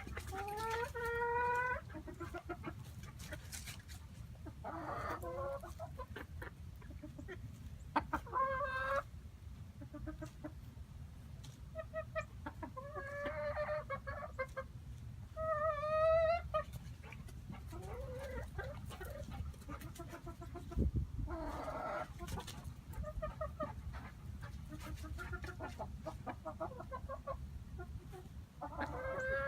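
A small flock of hens, Silkie among them, clucking and calling on and off, some calls rising in pitch, the loudest a little past halfway. A steady low hum runs underneath.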